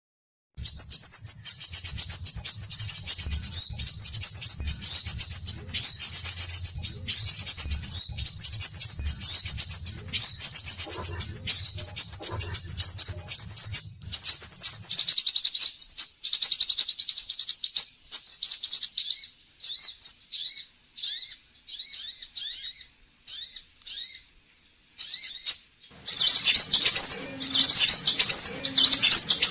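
Scarlet minivet (sepah raja) singing in full voice: rapid, high-pitched chattering trills, unbroken for about the first fifteen seconds, then in short phrases with gaps, and dense again near the end. A faint low hum lies under the first half.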